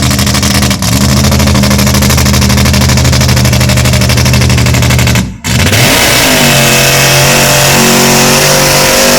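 Mud bog vehicle's engine held at high, steady revs. It cuts out abruptly a little over five seconds in, then an engine runs again with its revs wavering up and down.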